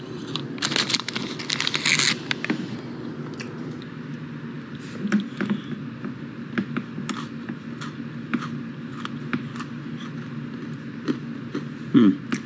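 Close-up chewing of a crunchy stick snack: scattered crunches and clicks, with a denser stretch of crackling about a second in.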